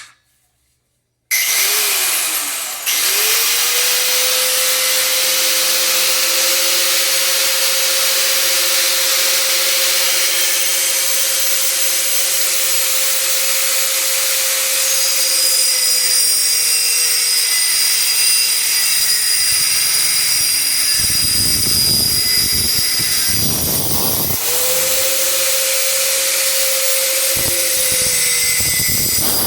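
Angle grinder spinning up about a second in and cutting through a thin iron bar, a steady motor whine over a harsh hiss, its pitch sagging under load. Near the end it briefly stops and spins up again.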